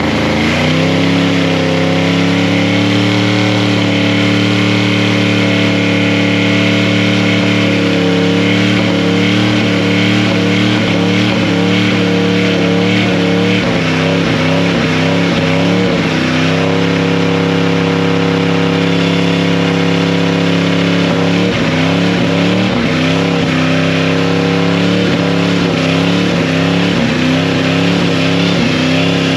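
Truck engine held at high revs during a burnout, loud and steady. The revs dip briefly and climb back a few times, around halfway through and again about three quarters through.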